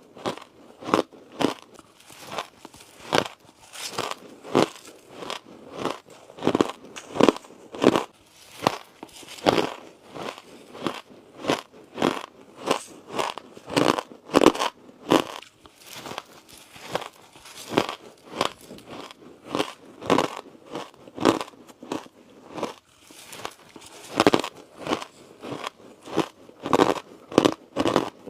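Close-miked crunching of ice: a steady run of sharp crunches as pieces of coloured ice are bitten and chewed, about one or two a second.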